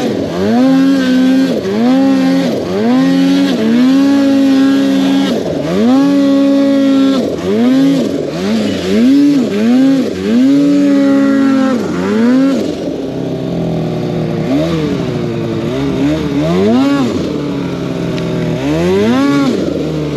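Snowmobile engine revving hard in quick repeated bursts, the pitch climbing, holding, then dropping about once a second as the throttle is worked. Past the middle the revs ease into a lower steady running with a few sharp rises near the end.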